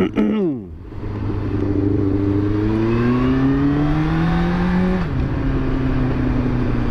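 Yamaha FZ1's inline-four engine pulling hard under acceleration, its pitch rising steadily for about four seconds, then dropping sharply about five seconds in as it shifts up a gear and running steady after. The revs also fall briefly at the very start.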